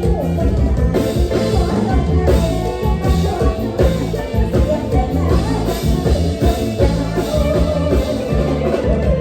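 Live Isan mor lam band playing a toei dance tune: electric bass and drum kit keep a steady, driving beat under a melody line.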